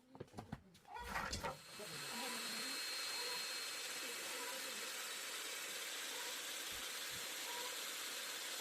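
A steady hiss that starts about a second and a half in and holds at an even level.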